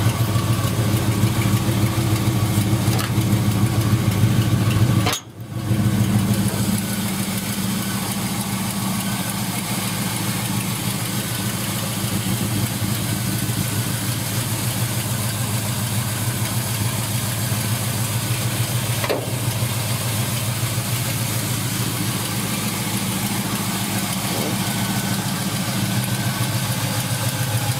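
A 1971 Chevelle's V8 engine idling steadily under an open hood. The sound cuts out briefly about five seconds in.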